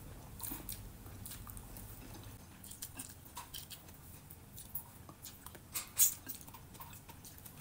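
Close-up mouth sounds of a person chewing and eating grilled fish and rice by hand, with scattered small clicks and lip smacks; the loudest smack comes about six seconds in.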